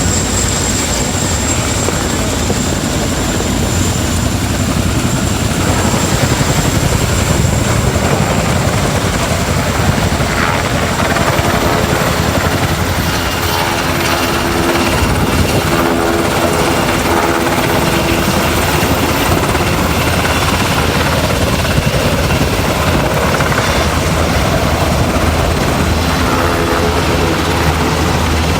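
Helicopter running, a steady drone of rotor and engine.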